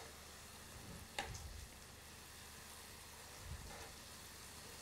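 Faint sizzling of sliced green peppers, onion and tomato frying in a non-stick pan, with a light click about a second in.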